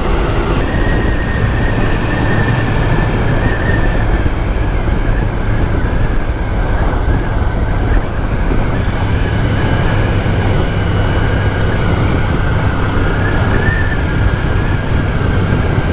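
Honda VFR's V4 engine running steadily while the motorcycle cruises slowly, with heavy wind rumble on the helmet microphone and a steady high whine over it.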